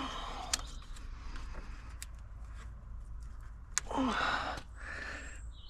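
Light clicks and handling noise of hands working stubborn plastic trim clips in a car's engine bay, with a short grunt about four seconds in.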